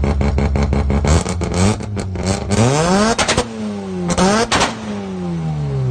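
Mazda RX-7's rotary engine idling with a rapid, even pulsing. About a second in it is revved in several blips, its pitch climbing and then falling back each time.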